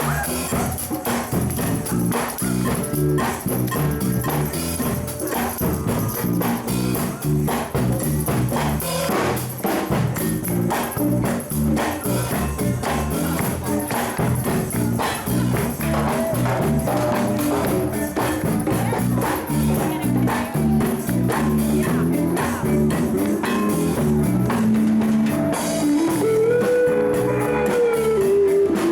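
Live band jamming: drums and guitar with a tambourine shaking along to a steady beat, and sliding melody notes near the end.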